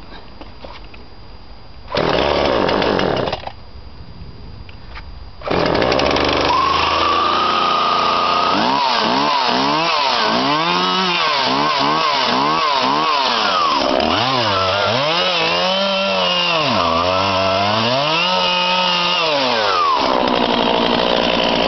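Husqvarna 137e two-stroke chainsaw being cold-started: about two seconds in it fires briefly and dies, the sign of it wanting to start on full choke. A few seconds later it catches and runs at a high, steady fast idle on half choke, is then revved up and down over and over for about ten seconds, and settles to a steady idle near the end.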